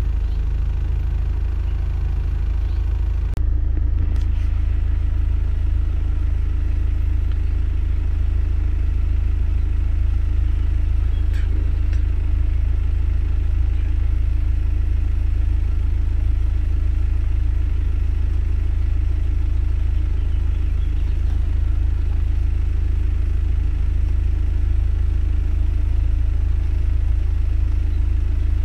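Honda S2000's 2.0-litre four-cylinder engine idling steadily, heard from inside the cabin as a constant low rumble.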